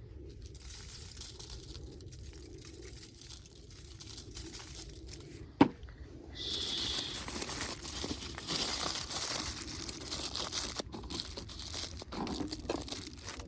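A sharp clack about halfway in, then food sizzling steadily in a hot pan.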